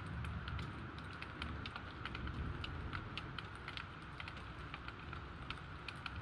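Steady rain, with close drops ticking sharply and irregularly over the hiss, and a low rumble underneath.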